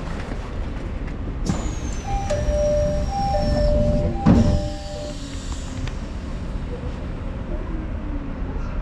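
Odakyu Line electric commuter train running along the track, heard from inside the car as a steady rumble of wheels on rails. In the middle come a few seconds of steady two-pitch tones and a falling high whine, with a sharp bang a little over four seconds in.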